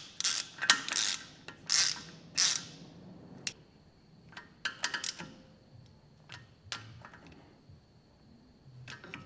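Socket ratchet clicking as small M6 bolts are done up by hand: a run of strokes in the first few seconds, then scattered clicks and taps.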